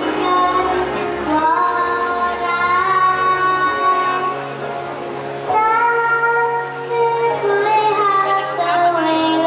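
A young girl singing a song over a backing track, holding long notes twice.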